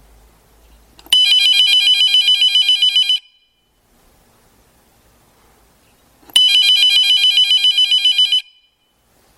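Telephone ringing: two rings of about two seconds each with a fast trilling tone, about three seconds apart.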